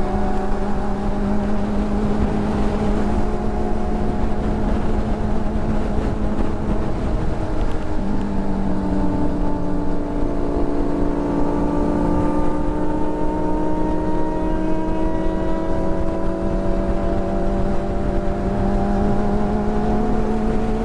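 Motorcycle engine running at a steady cruise, its tones drifting slowly in pitch, over a constant low rumble of wind noise.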